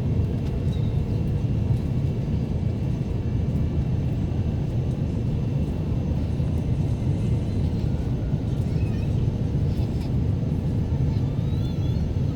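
Steady low rumble of an Airbus A350 cabin in flight, engine and airflow noise heard from inside the plane.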